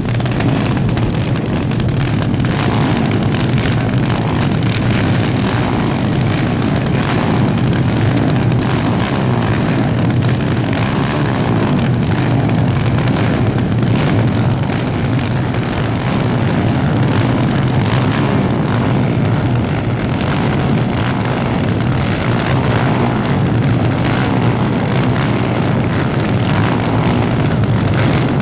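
250cc superkart engines running hard on track, a loud continuous engine noise without letup.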